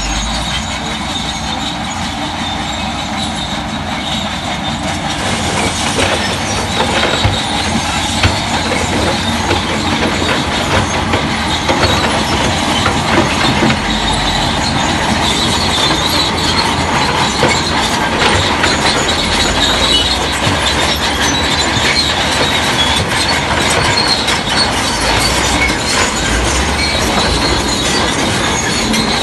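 Bulldozer at work: its steel crawler tracks clank and squeal continuously over the running engine, growing louder about five seconds in.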